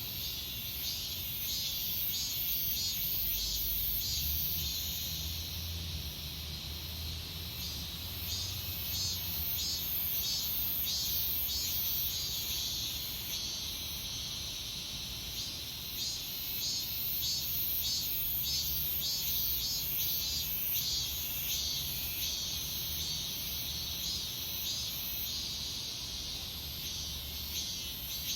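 Cicadas singing in a dense chorus, a steady high buzz that pulses in a regular beat about twice a second, with a faint low rumble underneath.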